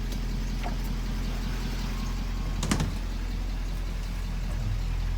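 Bus engine idling with a steady low hum, and a single sharp knock a little under three seconds in.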